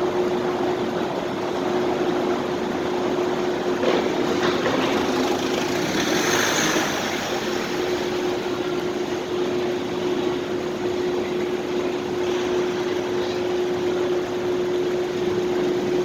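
Parking-lot ambience: a steady rumble of vehicle and machinery noise over a constant hum, with one louder rush about six seconds in.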